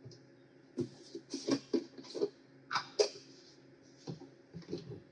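Kitchen handling noises from spice containers being picked up, shaken over potatoes and set down: a string of short, irregular clicks and rustles.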